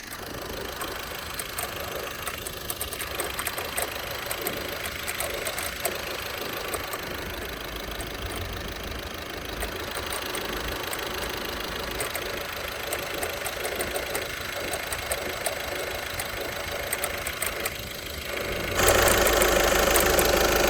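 VW 1.6 TDI diesel engine running, with irregular light clicks from the accessory drive, a noise the owner puts down to the accessory-belt tensioner pulley. Near the end the sound suddenly gets louder.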